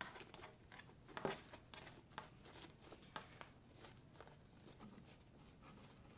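Faint, scattered soft rustles and small sticky ticks of hands rolling and twisting fluffy slime on a tabletop, the strongest about a second in.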